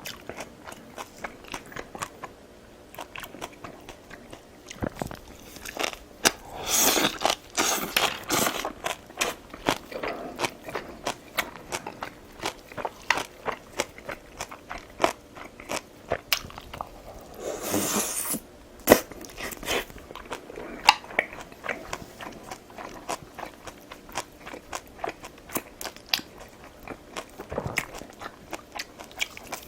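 Close-miked chewing and biting of food, many small wet mouth clicks and crunches, with two louder, noisier stretches of eating, one about seven seconds in and one about eighteen seconds in.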